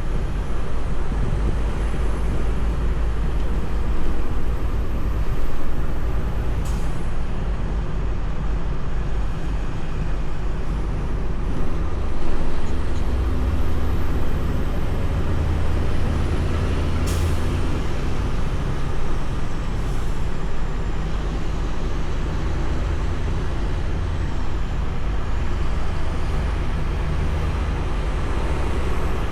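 Semi truck driving, with a steady low engine rumble and road noise heard from inside the cab; the engine note shifts a few times.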